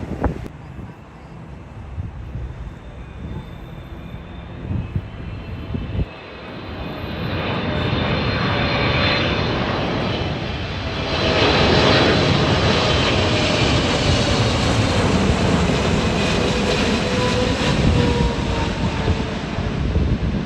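Jet airliner's engines passing close by, the roar building from about six seconds in and staying loud, with high whining tones that slowly drop in pitch. Wind buffets the microphone before the aircraft arrives.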